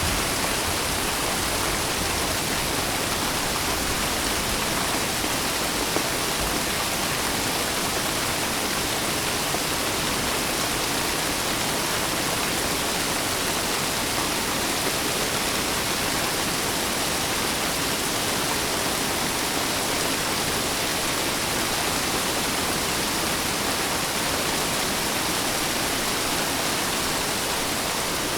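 Steady rain falling, an even unbroken hiss with no pauses or changes.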